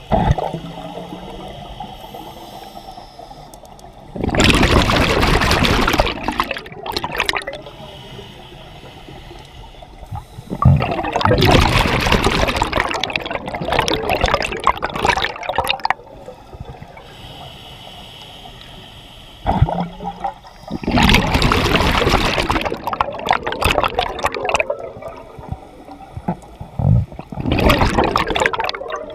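Scuba diver breathing through a regulator underwater: four long rushes of exhaled bubbles, with quieter stretches between breaths.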